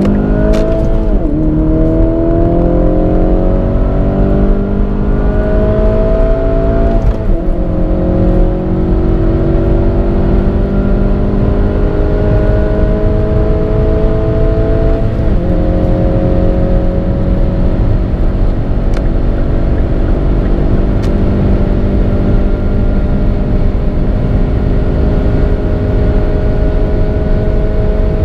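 2017 Kia cee'd GT's 1.6-litre turbocharged four-cylinder engine under full-throttle acceleration, heard from inside the cabin. The engine note climbs in each gear and drops with an upshift about half a second in, about seven seconds in and about fifteen seconds in. After that it rises slowly in top gear over steady road and wind noise.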